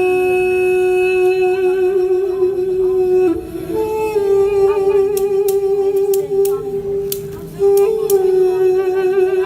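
Duduk, the double-reed woodwind, playing a slow improvised melody of long held notes with vibrato, the pitch shifting up and down a few times.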